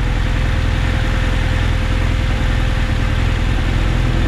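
Adventure motorcycle engine running steadily at low revs, a deep rumble with a steady tone held through it.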